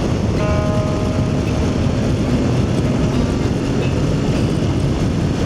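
Aprilia Tuareg motorcycle under way at a steady cruise: engine running under the loud, even rush of wind on the helmet microphone.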